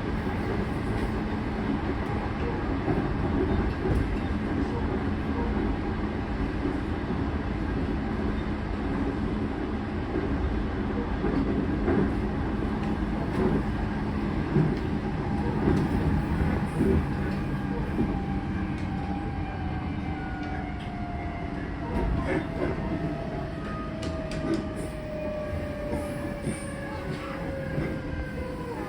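Odakyu 4000-series electric train heard from inside a passenger car, its wheels rumbling on the rails with a few clicks from the track. From a little past halfway, the traction motors' whine slides steadily down in pitch as the train brakes for the next station.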